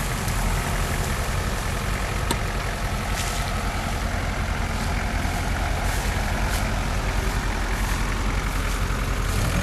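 Off-road SUV engine running steadily at idle, a constant low rumble with a few faint ticks.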